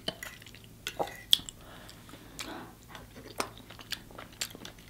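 A person chewing a mouthful of food with the mouth closed, close to the microphone: soft wet mouth clicks and smacks at irregular intervals, the sharpest a little over a second in.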